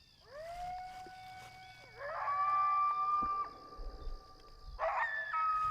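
Coyote howls: several long calls, each swooping up and then held, overlapping one another, with a fresh burst of calls about two seconds in and again near the end. A faint steady high whine runs underneath.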